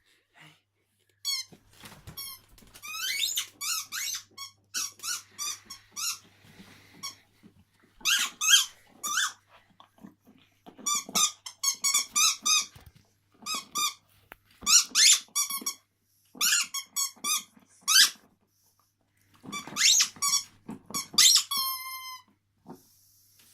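A dog chewing a squeaky toy, squeezing out quick runs of high-pitched squeaks with short pauses between the runs.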